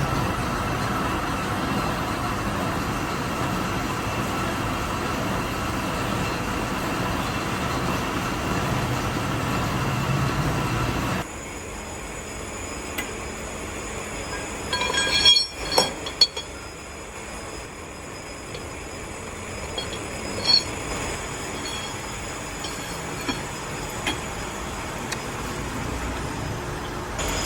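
Machine-shop noise: steady machinery running with a faint metallic whine. About eleven seconds in, it cuts to a quieter background with a few sharp metal clinks.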